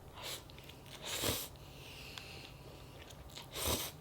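A person eating curry-flavoured instant fried noodles, making three short eating noises: about a quarter-second in, a second in, and near the end.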